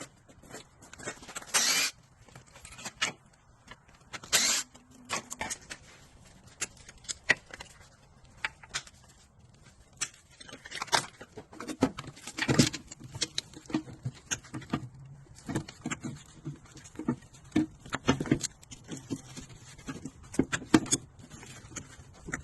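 Irregular clicks, knocks and light rattles of things being handled, with a few louder knocks scattered through.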